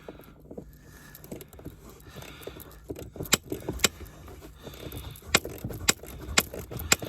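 Irregular metallic clicks and clinks of a ratchet wrench being worked on a floor bolt, a few strokes sharply louder than the rest.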